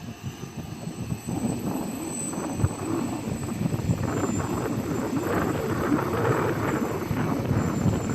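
Heavy freight train approaching, a dense rumble that grows steadily louder.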